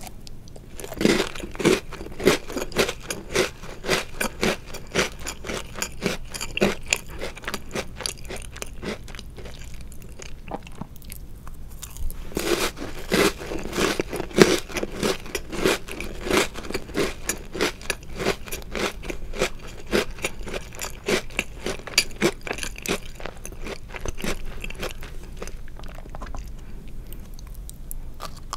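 Close-miked chewing of crunchy chocolate-covered Oreo cookies: a run of crisp crunches, about two to three a second, slowing briefly in the middle before a louder run of bites and crunching.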